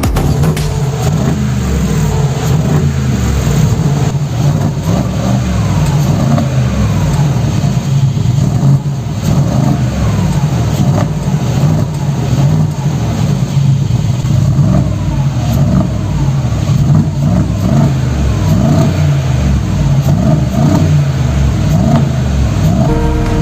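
Mercedes-AMG G63's V8 revved again and again through a reworked Brabus-style exhaust, its pitch rising and falling with each blip.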